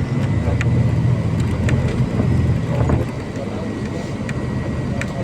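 MAZ-203 city bus's diesel engine heard from inside the cabin, pulling hard for about three seconds and then easing off, with scattered clicks and rattles from the bus interior.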